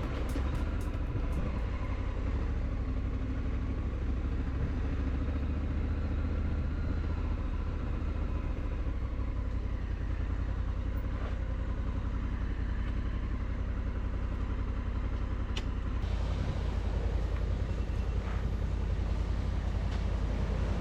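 Honda Africa Twin parallel-twin motorcycle being ridden along the road, its engine and wind on the microphone making a deep steady rumble.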